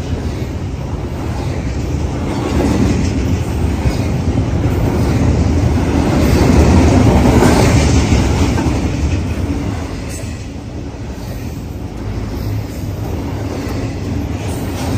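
BNSF intermodal freight train passing: a steady rumble and clatter of wheels on rail that swells to its loudest about seven seconds in, eases, then builds again near the end.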